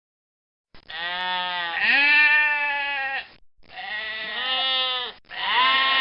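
Three long bleats from a sheep or goat-type farm animal, starting about a second in, each call bending in pitch.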